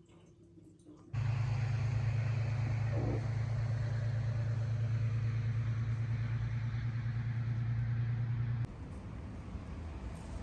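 An electric appliance running with a loud, steady low buzz that starts abruptly about a second in and cuts off suddenly about seven seconds later, leaving a fainter hiss.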